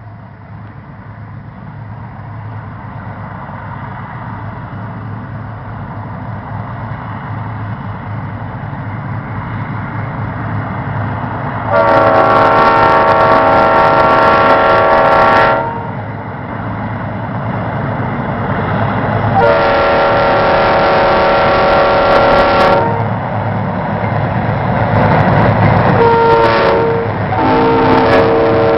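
Diesel freight locomotives hauling a coal train, their engines running louder as they approach accelerating upgrade. The multi-note air horn sounds two long blasts, a short one and a final long one: the standard grade-crossing warning.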